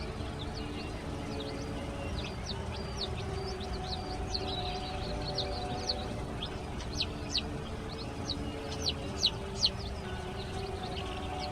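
A group of baby chicks peeping: a steady stream of short, high cheeps, a few of them louder in the last few seconds, over a faint steady low hum.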